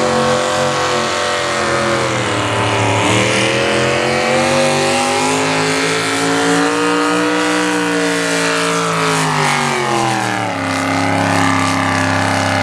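Naturally aspirated two-wheel-drive pulling truck's engine at full throttle under load, pulling the sled down the track. Its revs dip about three seconds in, climb to a peak midway, then fall off around ten seconds in and hold lower as the pass ends.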